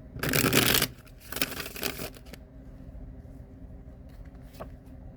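Tarot cards being shuffled by hand: two short rustling bursts in the first two seconds, then a couple of faint clicks.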